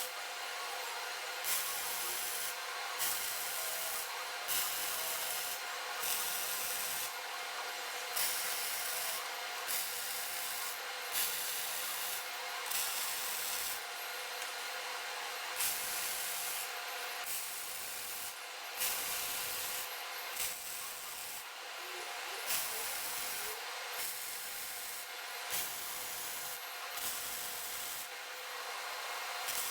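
Steady hissing crackle of a MIG welding arc from a robot-held torch fed by a Migatronic Sigma Select 400 C, swelling slightly every second or two.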